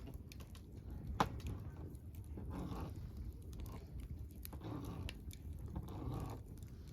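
Wood campfire crackling: scattered sharp pops and snaps, the loudest a little over a second in, over a low rumble from the fire.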